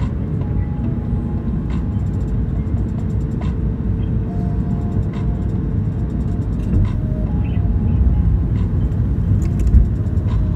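Steady low rumble inside an airliner's cabin from the engines and airflow, growing a little louder in the second half, with a brief thump near the end.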